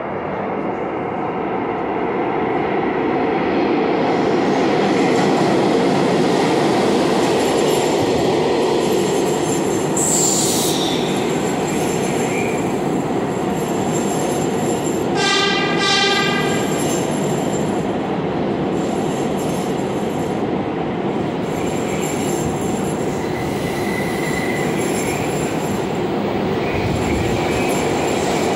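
Train running past steadily, the rumble building over the first few seconds. About ten seconds in there is a brief high squeal falling in pitch, and about fifteen seconds in a short horn blast of about a second.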